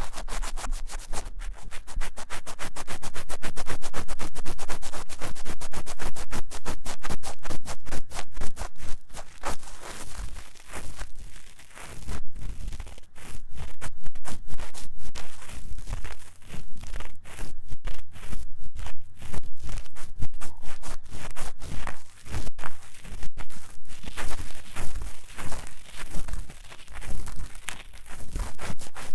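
Fast, vigorous ear-cleaning scratching and scraping on the silicone ears of a 3Dio binaural microphone, in dense quick strokes several times a second.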